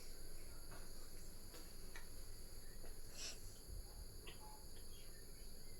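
Faint background: a steady high-pitched whine with a few soft, short clicks scattered through it.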